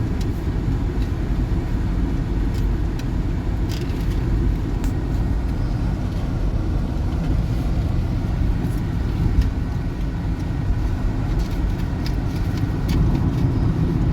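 Steady low rumble of a car driving along a highway, engine and tyre road noise heard from inside the cabin.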